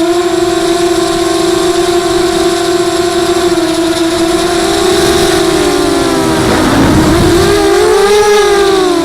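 Brushless motors and propellers of a 250-size FPV racing quadcopter whining steadily in flight, with a brief drop in pitch and a rush of noise about two-thirds through before the pitch climbs back as throttle is added.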